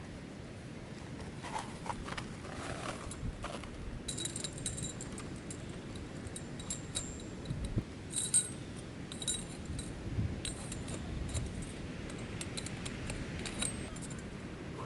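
Light metallic clinks and rattles of small camp gear being handled, in scattered short groups over a steady low outdoor rumble.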